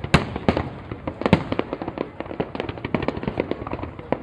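Fireworks going off in a dense, uneven string of bangs and crackling pops, with the loudest bangs just after the start and at about a second and a half in.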